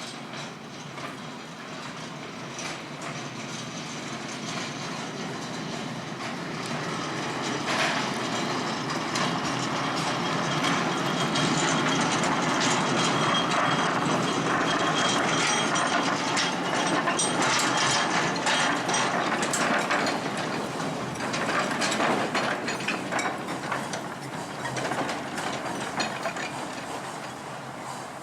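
Miniature railway train running on its track, wheels clicking and rattling over the rails. It grows louder, is loudest about halfway through, then fades away.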